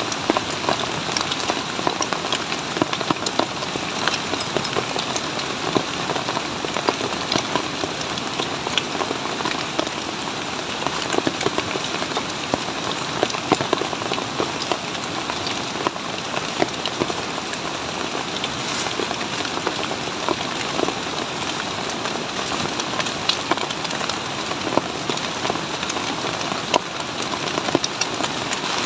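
Heavy rain falling steadily, a dense hiss with many sharp drop impacts close by.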